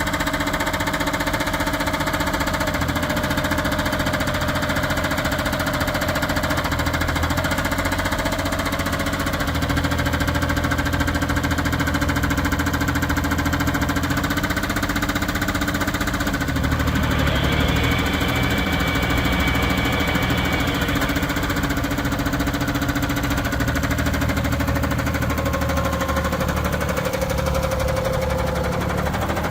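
Diesel engine of a Case IH 1120 19 HP garden tractor running steadily with a knocking diesel clatter. Its tone shifts a little about a third of the way in and again about halfway through.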